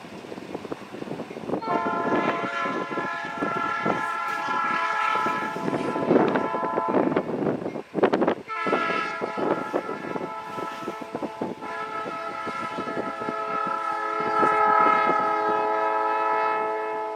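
Locomotive air horn sounding three blasts, a long one, a shorter one, then another long one that runs past the end, its several notes held together as a chord. Wind buffets the microphone underneath.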